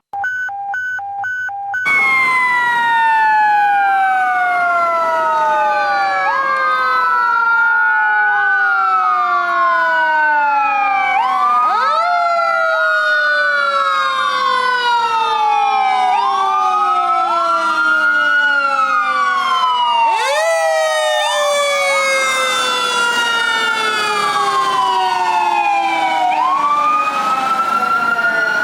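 Fire engine sirens: electronic sirens wailing up and down every couple of seconds over a Federal Q2B mechanical siren. The Q2B spins up sharply and then coasts down in long falling wails, about every eight seconds. It opens with a couple of seconds of short, pulsed horn-like tones.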